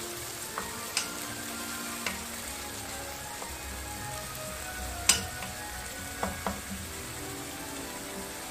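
Chopped tomato, onion and garlic sizzling in oil in a frying pan as a wooden spatula stirs it, with a few sharp clicks of the spatula against the pan, the loudest about five seconds in.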